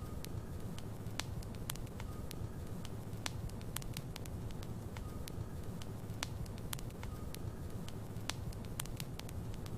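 Wood logs burning in a fireplace, with a low steady rumble and irregular sharp crackles and pops scattered throughout.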